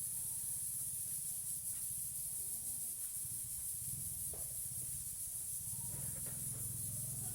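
Steady high-pitched hiss over a low hum, with a few faint short whistles and calls from pet parrots, and one sharper call about four seconds in.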